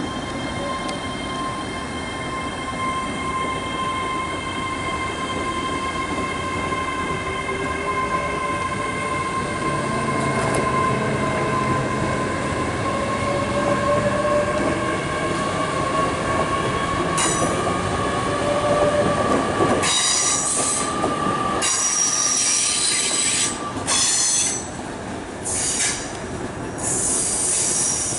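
A GWR Class 800 Hitachi intercity train moving through the station with a steady whine, a fainter tone slowly rising in pitch. Over the last eight seconds or so, high-pitched wheel squeal comes in repeated bursts.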